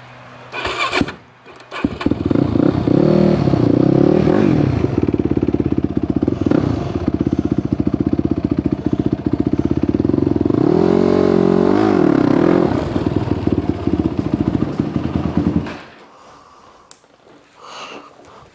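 Yamaha YFZ450 quad's single-cylinder four-stroke engine catching and running, with two brief rises and falls in revs from blips of the throttle, then shut off about three seconds before the end.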